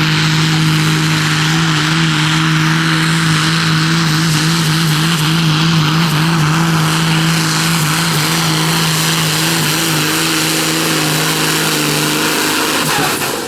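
Competition pulling tractor's engine at full throttle under load, loud and holding one steady pitch with a slight waver. It cuts off sharply near the end as the throttle comes off.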